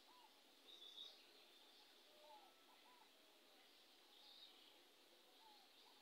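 Faint bird calls: short, hooked notes repeated in small groups, with a couple of higher chirps about a second in and again past the four-second mark.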